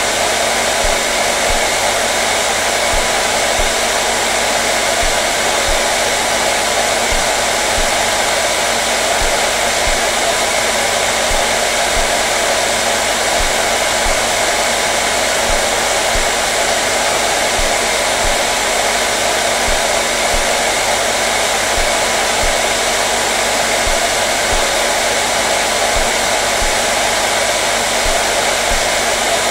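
Hair dryer running steadily, a constant airy rush of blown air with a faint motor hum underneath.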